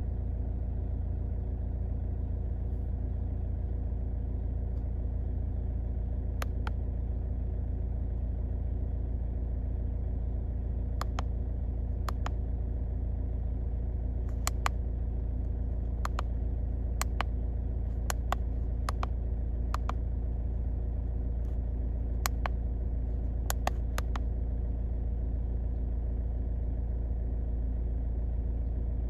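Car engine idling steadily with an even low hum. Sharp single clicks come now and then, most of them bunched through the middle.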